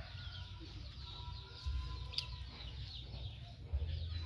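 Birds chirping, many short high chirps repeating throughout, over a low rumble that swells twice, the second time near the end.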